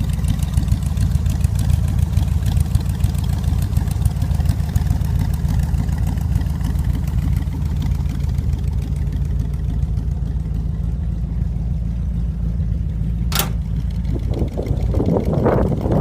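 Engine of a custom-built 1928 Ford truck idling steadily, with a sharp click about thirteen seconds in and a brief uneven burst of mid-range sound near the end.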